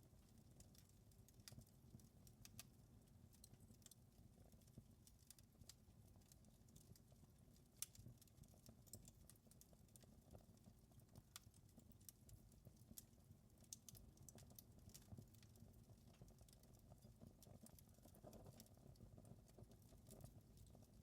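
Wood fire crackling softly: irregular small pops and snaps over a low, steady rumble of the flames, with one sharper pop about eight seconds in.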